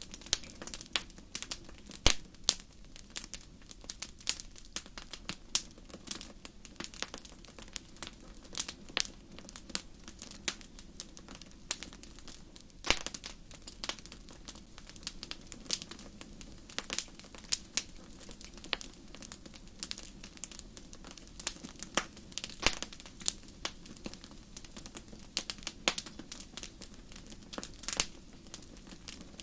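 Campfire crackling: wood popping and snapping irregularly, several sharp pops every second with a few louder snaps, over a faint steady low rumble.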